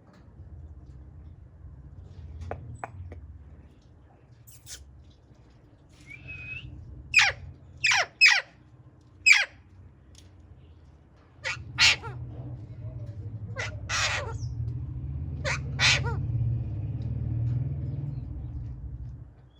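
Pet green parrot giving a series of short, sharp squawks, about nine in all, several in quick pairs, over a steady low rumble.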